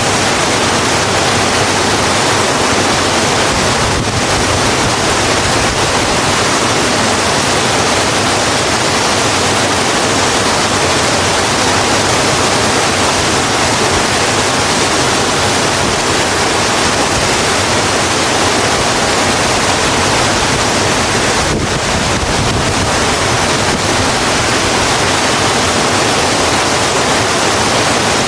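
Steady heavy rain falling on a road, an even, unbroken hiss.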